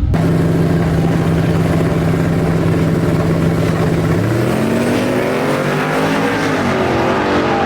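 Drag-racing truck engine held at steady revs for about four seconds, then launching: the revs climb, drop once as it shifts, and climb again.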